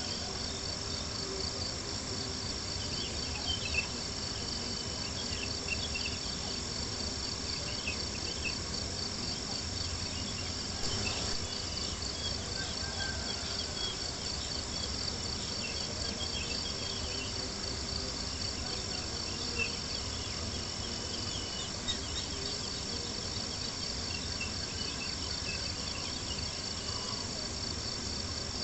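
Crickets chirping steadily in a fast, even pulse, with a few sharp pops and crackles from a campfire.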